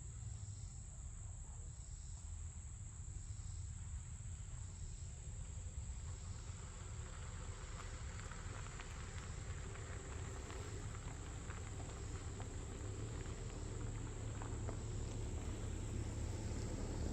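Steady, high-pitched drone of summer insects in woodland, over a low rumble. From about seven seconds in, scattered light crackles and rustles join in.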